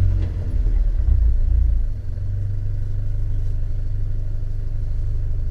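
Fiat 124 Spider's 1.4-litre MultiAir turbo four-cylinder just after a restart, its fast idle dropping about two seconds in to a steady idle. The idle is smooth, free for now of the rough running and cylinder 4 misfire it suffers from.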